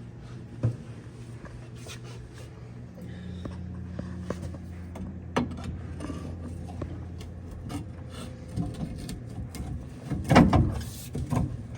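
Scattered knocks, clanks and scrapes of steel suspension parts and tools being handled and worked free, with the loudest knocks about ten seconds in, over a steady low hum.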